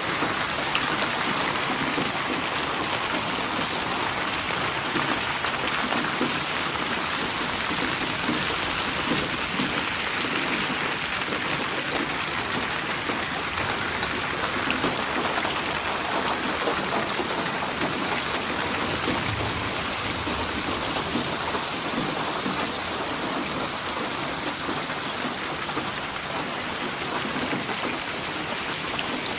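Steady rain falling, an even hiss with a few small drop ticks.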